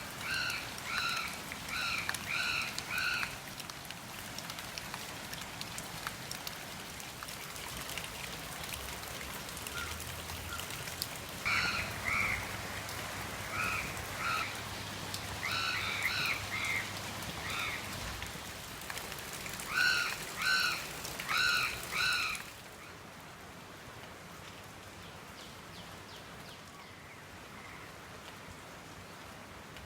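Steady rain falling, with a bird calling in runs of short repeated notes, three bursts of calls over the first two-thirds. About three-quarters of the way through, the rain drops suddenly to a quieter, softer hiss.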